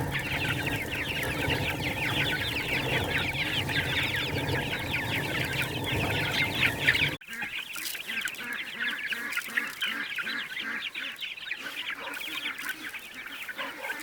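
A flock of chickens clucking and calling, many short calls overlapping. About halfway through the sound drops suddenly and the calling goes on more quietly.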